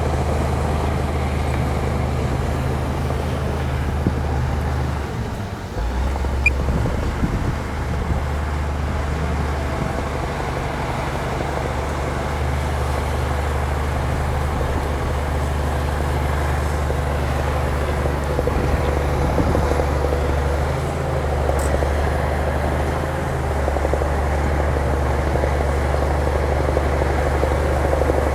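Heavy diesel engine of an earthmoving machine running steadily under load, with a deep drone whose note shifts briefly twice.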